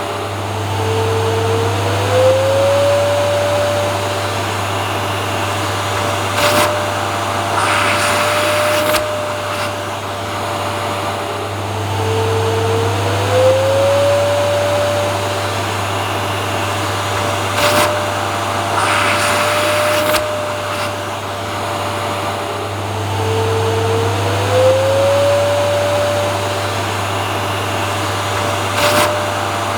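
Vacuum cleaner running continuously with a steady hum and rushing air. Its motor whine glides up in pitch about every eleven seconds, with short hissing bursts in between.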